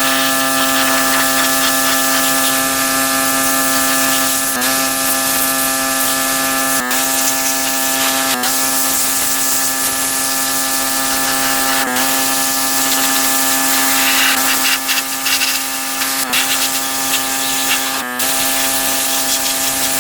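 Pressure washer running with a steady hum while its water jet sprays across a car's body panels, the sound briefly dipping a few times.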